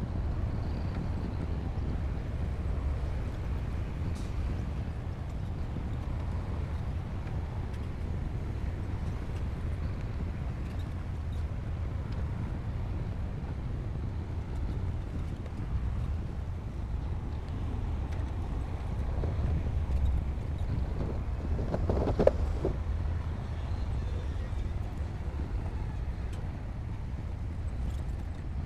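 Komatsu D60P crawler bulldozer's diesel engine running with a steady low rumble, with one sharp clank and a brief squeal about three-quarters of the way through.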